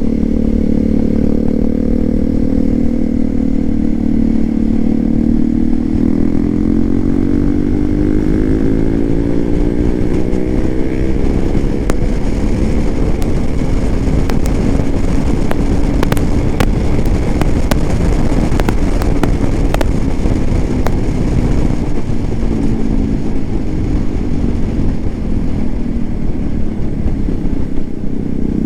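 Hero XPulse 200 4V's single-cylinder engine running through an aftermarket SC Project exhaust. It holds a steady note, rises in pitch as the revs climb from about six seconds in, then drops back toward the end. Sharp clicks and rattles come and go in the middle.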